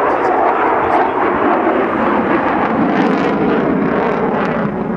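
Eurofighter Typhoon jet passing close in a display barrel roll, its twin Eurojet EJ200 turbofans producing loud, steady jet noise with some crackle in the second half.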